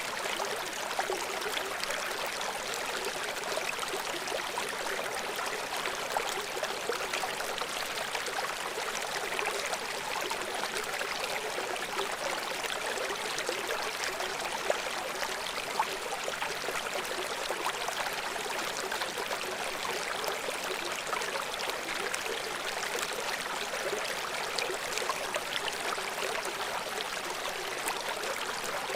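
River water flowing and splashing steadily over rocks below a waterfall, a continuous rushing with lots of small bright splashes.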